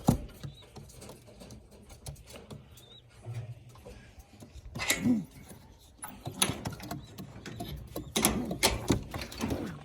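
Pigeons in a loft: scattered clicks and scuffs of birds moving about in wooden nest boxes, with a short coo about five seconds in. The clicking grows busier near the end.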